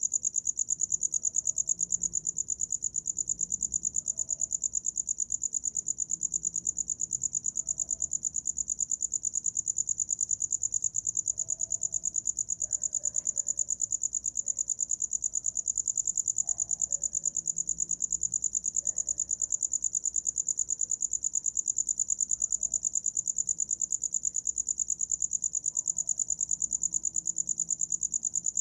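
A cricket singing: a steady, high-pitched chirping in rapid, even pulses that never breaks off.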